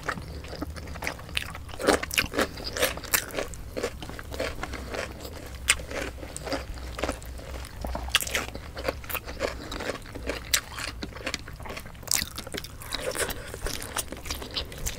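Close-up eating sounds of two people eating braised pork belly adobo and rice by hand: wet chewing and lip smacking, with many quick clicks a second and occasional finger sucking.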